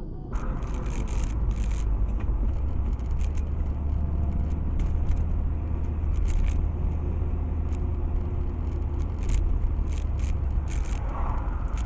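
A car driving, heard from the dashcam inside the cabin: a steady low engine and road rumble, with frequent short clicks and rattles.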